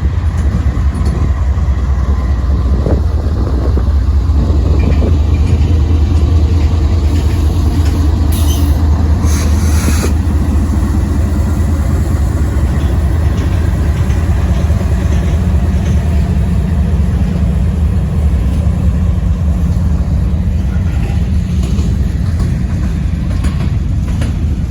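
Norfolk Southern freight train's diesel locomotives rolling by slowly with a steady, heavy low rumble, and two short hisses about eight and ten seconds in.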